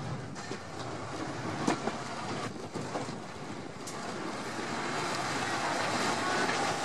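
Standard-gauge rack-and-adhesion train running on track with a cog rail, heard from the car's open side: a steady rumble of wheels on rails with a few sharp clicks and knocks, growing a little louder towards the end.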